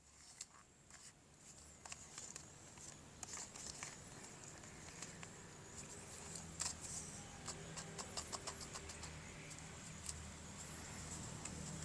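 Faint handling noises: scattered small clicks and short rustles, like plastic toy parts and packaging being picked up and moved. They grow busier after the first couple of seconds, under a faint steady high hum.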